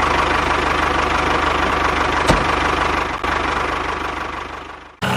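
Engine idling steadily with an even, rapid low pulsing. It fades over the last second or so, then stops abruptly.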